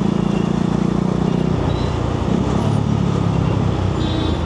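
Motorcycle engine running at low speed in stop-and-go city traffic, its pitch dropping about a second and a half in, over steady road and traffic noise.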